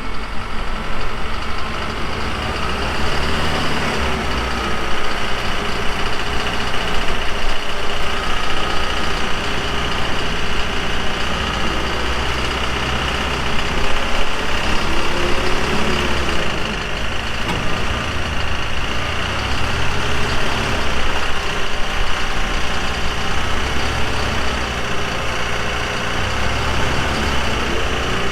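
Truck engine running at low speed during a mud recovery, its level rising and falling.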